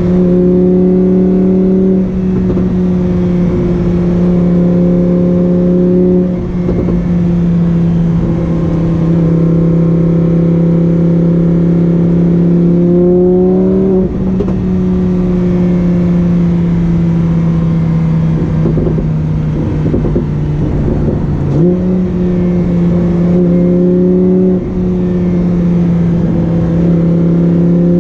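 Lamborghini Huracán Performante's V10 engine running loud and steady at a held engine speed, its note dropping and rising slightly a few times.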